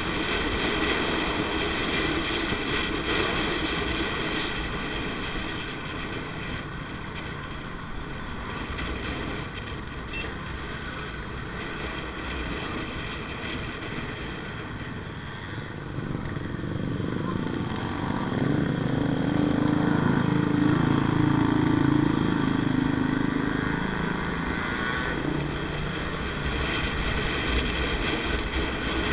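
Motorcycle running on the road while being ridden, with road and wind noise; the low engine hum grows louder for several seconds past the middle, then eases.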